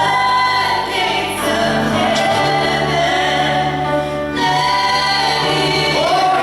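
Gospel worship music with a choir singing over a band, the sung notes held and changing every second or so.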